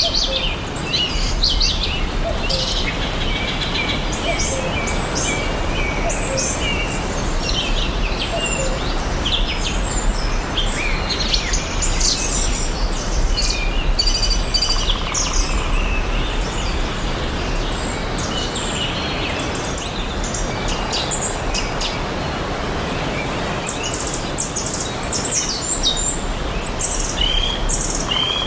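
Several songbirds chirping and trilling in quick, overlapping calls over a steady outdoor background hiss.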